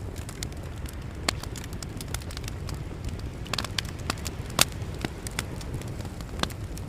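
Wood fire crackling, with irregular sharp pops, the loudest a little past the middle, over a low steady rumble of sea waves.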